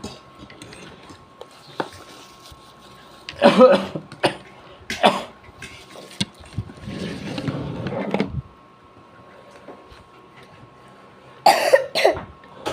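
A person coughing in a few short, loud bursts, with a longer stretch of throat clearing between them.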